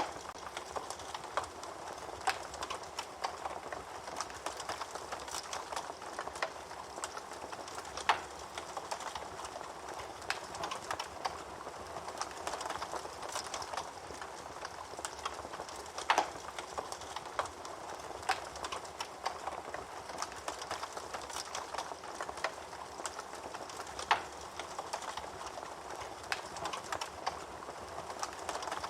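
Wood fire burning in a fireplace: a steady hiss with frequent small crackles, and a louder sharp pop about every eight seconds.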